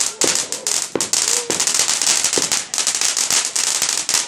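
Fireworks going off in a dense, rapid run of crackling pops, many a second, with a few short whistle-like squeals mixed in.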